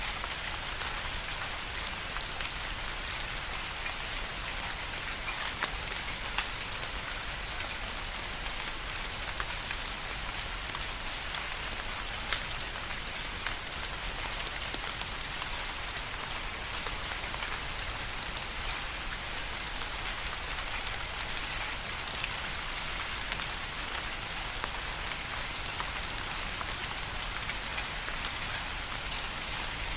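Steady rain falling, with many individual drops ticking sharply against a surface over an even hiss.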